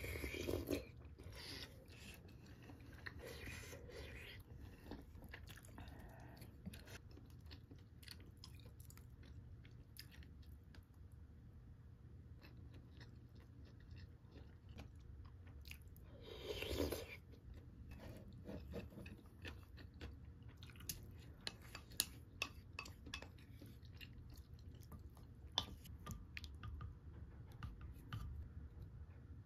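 Close-up eating sounds: a person chewing rice and sundae (Korean blood sausage) from a bowl of soup, with small clicks of a wooden spoon against the pot. There are two louder noisy bursts, one at the very start and one a little past halfway.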